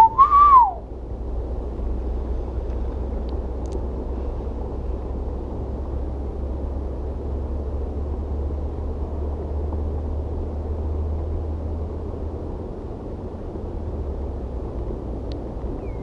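Steady outdoor background rumble and hiss, heaviest in the low end, of the kind left by wind or distant traffic. A brief falling call comes in the first second.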